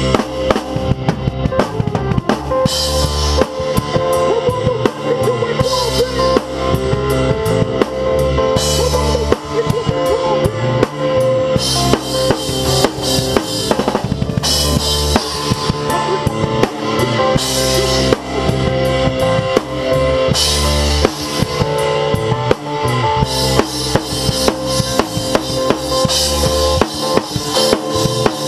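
Drum kit played steadily with kick drum, snare and Zildjian cymbals, over a band's music with sustained bass and guitar notes. Stretches of crashing cymbal wash come and go every few seconds.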